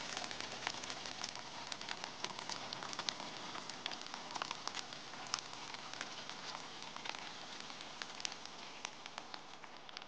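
Oil sizzling in a nonstick frying pan under a frying oyster omelette, with many small crackling pops as beaten egg is poured over it. The sizzle eases slightly near the end.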